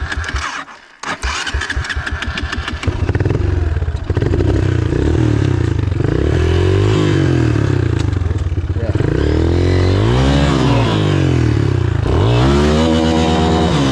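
Dirt bike engine cuts out for a moment about a second in and catches again, then is revved up and down several times, the revs rising and falling in long sweeps.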